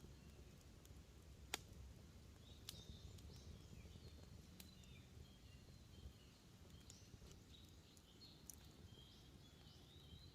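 Faint campfire crackling, with a few sharp pops, the loudest about a second and a half in, under repeated high chirping calls of small forest birds.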